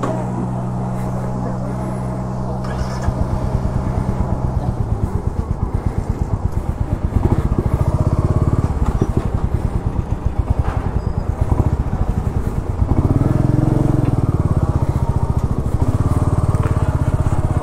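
Royal Enfield motorcycle engine idling steadily for about five seconds. The exhaust then turns to an uneven pulse as the bike creeps forward and pulls away through slow traffic, and the engine note rises about 13 seconds in as it accelerates.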